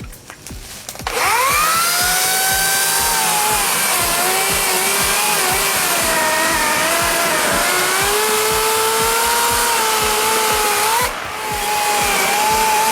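Chainsaw starting to rev about a second in and running at high speed, its pitch wavering up and down as it cuts. It drops briefly near the end, then runs again.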